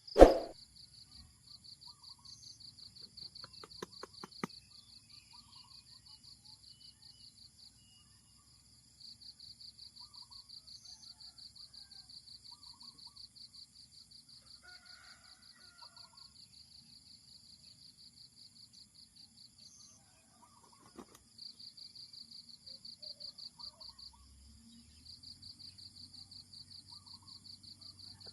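Forest insects trilling in a steady, fast-pulsing high buzz, with faint scattered bird chirps. A loud, sharp sound comes right at the start.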